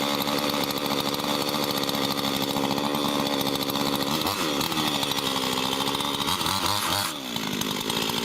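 Two-stroke chainsaw running at high speed while cutting into a pine trunk. Its steady pitch sags and recovers about four seconds in and again twice near the end as the chain bites into the wood, with a brief drop in loudness just before the end.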